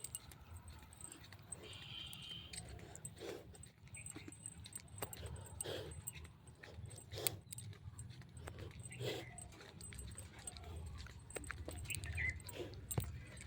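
A dog barking a few short times, over a steady low background hum.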